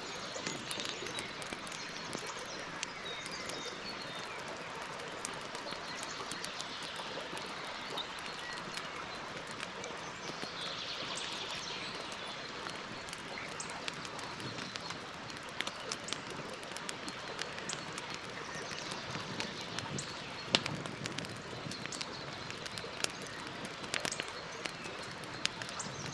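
Campfire crackling: many scattered sharp pops and snaps over a steady hiss, with one louder pop about three-quarters through. A bird chirps briefly near the middle.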